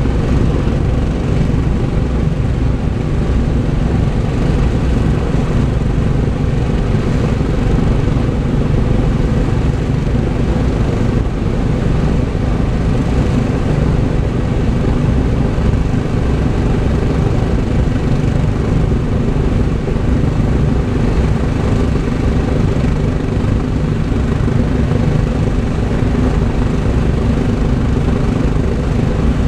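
Lockheed L-1049 Super Constellation's Wright R-3350 radial piston engines running steadily at low power, a loud, even propeller-engine drone with no rise or fall.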